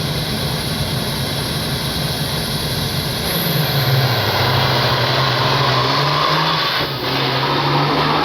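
Modified diesel semi-truck engine running loud, with a steady low hum that dips in pitch about four seconds in and then holds.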